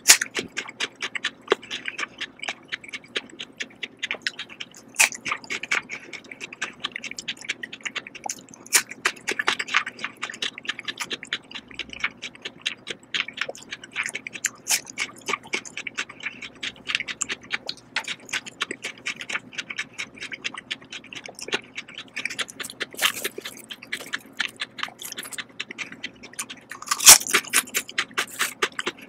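Close-miked chewing of crisp white fruit: a steady crackle of small wet crunches and mouth clicks. A louder crackling burst comes near the end.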